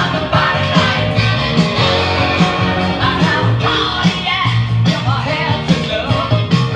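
A rock-and-roll song with singing, played on a vintage Isabela 5 record player (vitrola) to show that it works.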